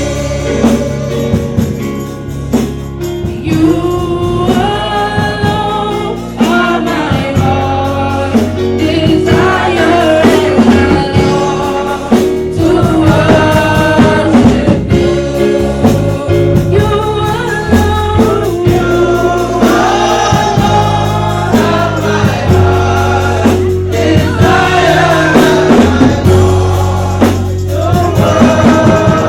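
Gospel choir singing with instrumental backing, sung melody over a steady bass line.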